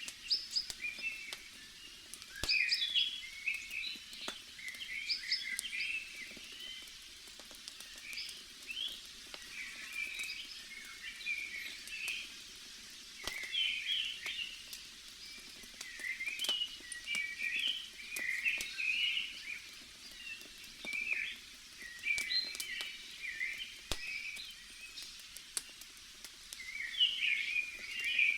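Bonfire crackling with scattered sharp pops, over a forest ambience of dense, continual chirping calls.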